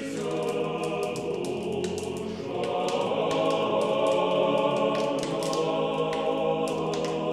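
A choir singing long held chords, with a change of chord about two and a half seconds in, over many faint irregular clicks.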